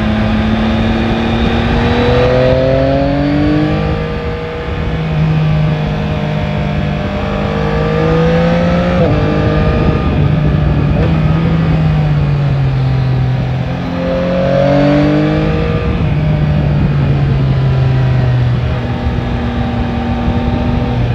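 Yamaha Tracer 9 GT's 890 cc three-cylinder engine pulling hard through the revs twice, its pitch climbing and then dropping as the throttle is rolled off or a gear is changed, with steady cruising between. A constant rush of wind and road noise runs underneath.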